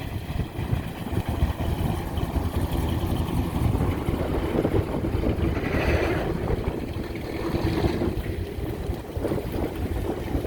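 Engine of a vehicle driving by, under heavy wind buffeting on the microphone. A steadier engine note comes through about halfway in.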